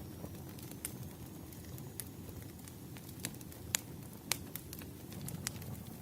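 Wood fire crackling: a handful of sharp, irregular pops over a low, steady rumble of burning logs.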